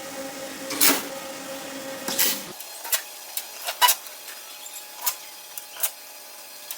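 Sharp, irregular clicks and knocks, as of wooden parts being handled and tapped, over a steady hum that cuts off about two and a half seconds in.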